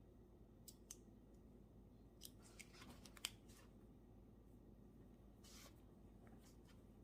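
Quiet room tone with a handful of small, sharp clicks and snips in the first half, the sharpest about three seconds in, then a brief soft rustle near the end: small objects being handled at a study desk.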